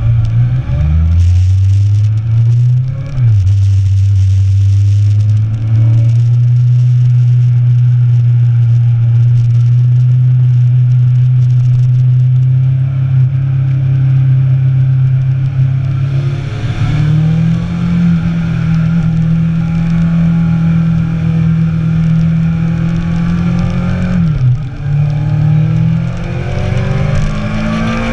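Motorcycle inline-four engine under way, heard from on the bike over wind noise. The revs hold steady for long stretches, rise about a second in, drop briefly around three seconds, step up around sixteen seconds, dip briefly around twenty-four seconds and climb again near the end.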